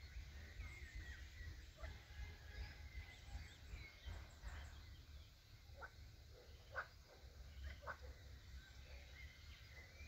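Faint birds chirping in the trees, with three short, sharper calls about a second apart past the middle, over a low steady rumble.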